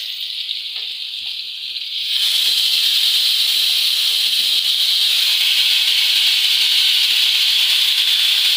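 Marinated chicken steaks sizzling on an oiled grill pan, a steady hiss that grows louder about two seconds in as the pieces are turned over with tongs onto the hot ridges.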